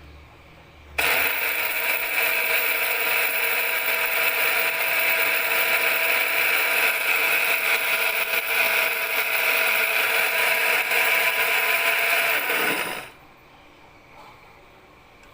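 BioloMix 300 W electric coffee bean grinder's motor running at full speed for about twelve seconds, starting suddenly, then switched off and briefly winding down.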